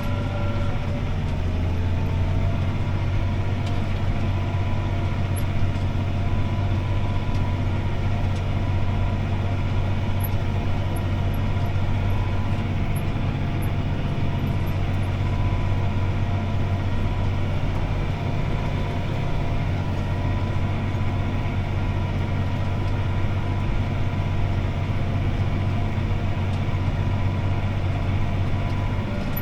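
Six-cylinder diesel engine of a CLAAS ARION 650 tractor running steadily under load while pulling a disc harrow, heard from inside the cab as a steady low drone with a faint whine on top.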